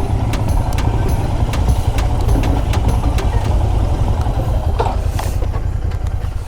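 Motorcycle engine idling with a steady low rumble and regular ticking, stopping abruptly at the end.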